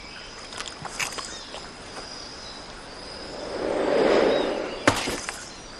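Forest ambience: a steady high insect tone with a few faint bird chirps, and a soft whooshing swell that rises and falls around the middle, with a couple of brief clicks.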